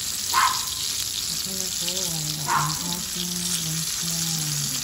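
Spring rolls shallow-frying in hot oil in a wok: a steady sizzle, with two louder spits of oil, one just after the start and one midway.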